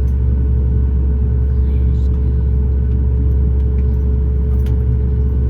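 Boeing 737-9 MAX cabin noise: a steady loud low rumble from the airliner with a constant hum tone over it, level and unchanging.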